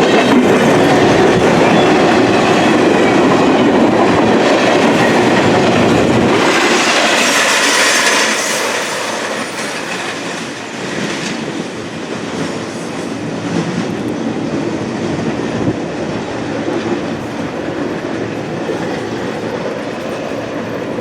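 Intermodal container freight train rolling past, its cars' wheels running over the rails. About six seconds in the sound drops noticeably and carries on steadier and quieter, with a brief high screech of wheels around that change.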